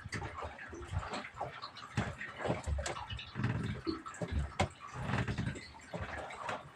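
Water sloshing and slapping against a small boat's hull, in uneven surges, with a few sharp knocks.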